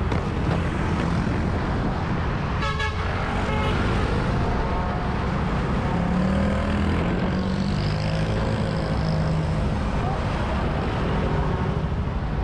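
Steady rumble of road traffic and vehicle engines, with a short horn toot about three seconds in.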